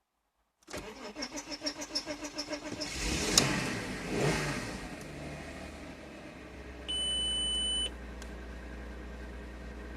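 Volkswagen Passat 2.8-litre V6 cold start: the starter cranks for about two seconds, the engine catches and is blipped twice with the throttle, then settles into a steady cold idle. About seven seconds in, a single electronic beep sounds for about a second.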